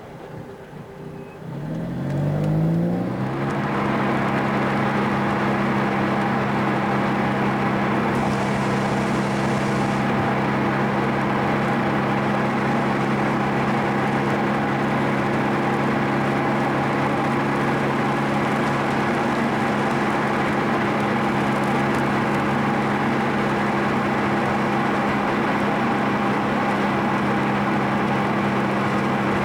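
Car engine heard from inside the cabin, rising in pitch as it accelerates about two seconds in, then holding a steady drone at constant speed.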